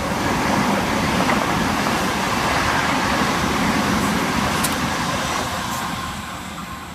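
Electric passenger train passing through the station, a steady rush of wheel and track noise that swells, holds, then slowly fades away.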